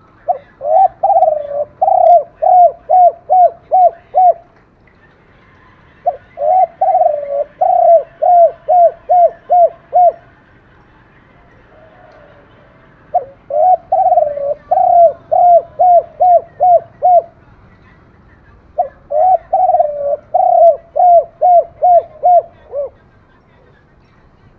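Spotted dove cooing: four phrases, each a few longer coos followed by a quick run of short notes that each drop in pitch, with pauses of about two seconds between phrases.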